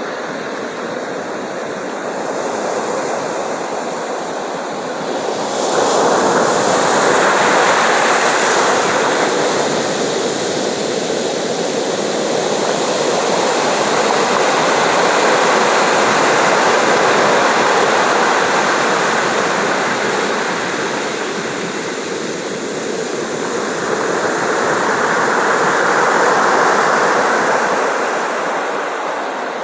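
Ocean surf: waves washing and breaking in a steady rush of water, swelling louder as a wave comes in about six seconds in and again near the end.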